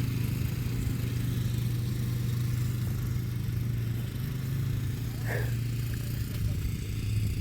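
An engine running steadily at idle, a constant low hum, with a brief high chirp about five seconds in.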